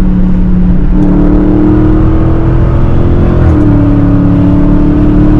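Car engine running steadily under way, its pitch creeping up and then dropping about three and a half seconds in, as at an upshift.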